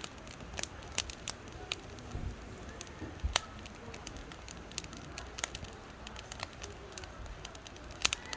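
Firewood burning, crackling and popping at irregular intervals over a low steady hiss, with a louder pop a little past three seconds in and a quick cluster of pops near the end.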